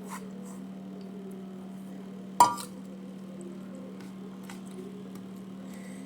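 A single sharp clink of tableware, a dish or utensil striking a plate, about two and a half seconds in, ringing briefly. A steady low hum and a few faint small clicks of eating sit under it.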